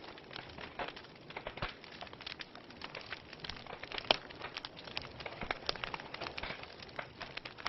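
Wood fire in a fireplace crackling, with irregular sharp pops and snaps and one louder pop about four seconds in.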